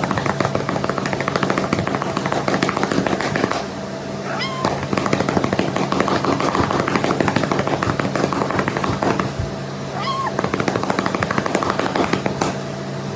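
A cat meows briefly twice over a continuous rapid crackling, clicking noise and a steady low hum.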